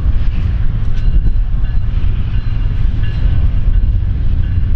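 Railcars of a passing train, a passenger-style geometry car and two covered hoppers, rolling by close at hand: a steady, heavy rumble of wheels on rail, with faint thin high tones from the wheels now and then.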